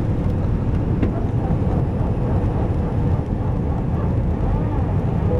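Airbus airliner taking off: its jet engines and rushing air make a loud, steady rumble.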